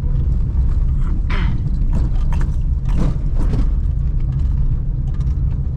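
Suzuki Celerio's engine and road noise while driving: a steady low rumble, with scattered clicks and rattles over it.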